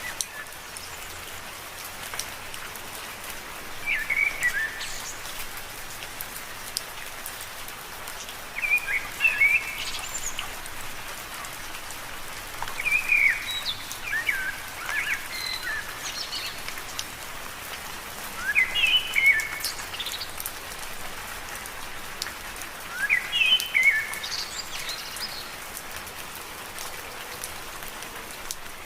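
Gentle rain falling steadily on leaves, an even hiss, with a bird's short chirping phrase cutting in five times, about every four to five seconds.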